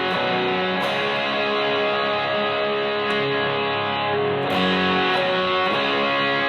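Electric guitar played through a Donner Morpher distortion pedal into a Fender Blues Deluxe tube amp: distorted chords left ringing, with a new chord struck about a second in and another about four and a half seconds in.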